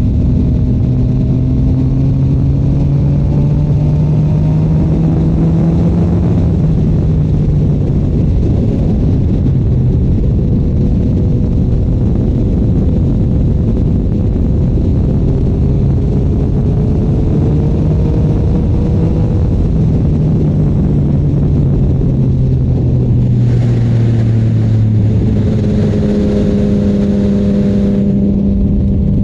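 Yamaha MT-09 inline-three engine through a Shark Street GP exhaust, under way with its pitch rising and falling as the rider accelerates and eases off. Heavy wind rush is mixed in.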